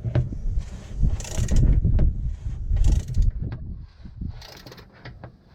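A 17 mm socket wrench working at a tight-access nut on an engine's belt tensioner: uneven metal clicks, knocks and scraping, busiest in the first three seconds, then a few lighter ticks.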